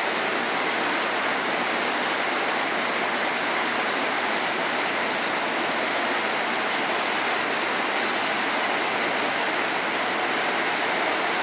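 Steady running noise of three O scale model trains going round their track loops together, an even rushing of wheels and motors on the rails.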